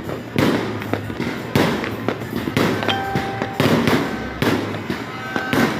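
Fireworks going off in rapid succession, roughly one to two bangs a second, with crackling between the bangs.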